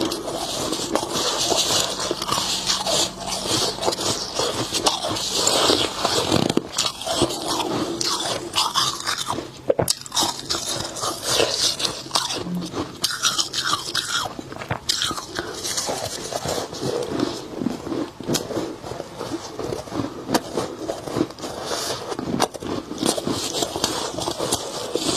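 Soft, snowy freezer frost being bitten and chewed close to the microphone: a continuous run of dense crunches, with some scraping.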